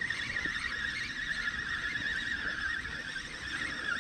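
Spinning reel being cranked steadily to retrieve a feeder rig after a missed bite, giving a continuous wavering whine.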